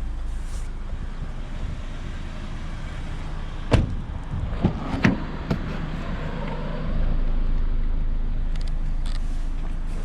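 2017 Lexus RX 200t with its 2.0-litre turbocharged four-cylinder (8AR-FTS) being driven: steady low engine and road rumble, with a few sharp knocks around the middle and the rumble getting louder about seven seconds in.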